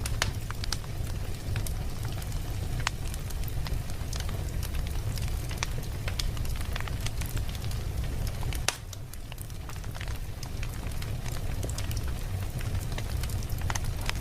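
Wood fire crackling in a fireplace: a steady low rumble of flames with frequent sharp pops and crackles at irregular moments. The sound drops a little after halfway and builds back up over the next few seconds.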